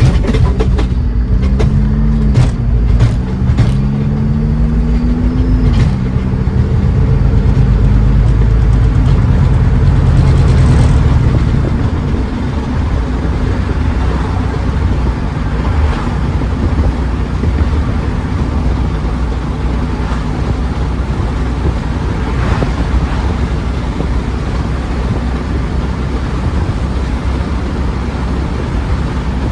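2008 Ford Edge pulling away and accelerating. Its engine pitch rises and drops back at gear shifts about 2 and 6 seconds in, then settles into a steady low drive drone that eases off after about 12 seconds. The owner says this vehicle has a bad transfer case.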